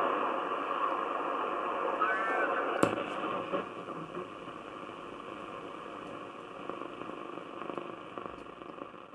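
Grundig Satellit 3400 world receiver's loudspeaker playing a shortwave broadcast through static, with a brief warbling whistle about two seconds in and a sharp click just after. The sound grows gradually quieter toward the end.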